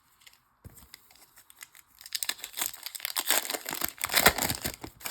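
A trading-card pack wrapper being torn open and crinkled. A dense crackle starts about a second in and grows louder toward the end.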